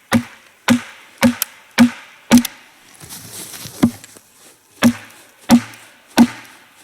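Wooden wedge being hammered into the crack of a log to split it open: nine sharp wooden knocks about half a second apart, with a short pause halfway through.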